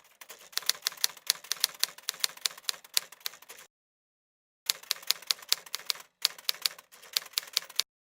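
Typewriter keys clacking in quick runs of sharp clicks, broken by two short dead-silent pauses, typical of a typing sound effect laid over on-screen text.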